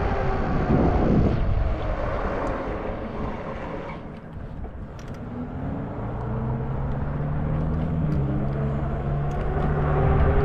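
Zota Zephyr fat-tire e-bike under way: a whining hum from its electric motor and tyres over steady wind noise. The whine falls in pitch and fades as the bike slows, dipping quietest about four seconds in, then climbs back up in pitch and loudness as it picks up speed again.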